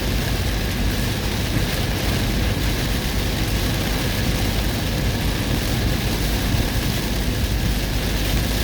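Heavy storm rain mixed with the low rumble of a vehicle driving through it, an even noise with no breaks or sudden sounds.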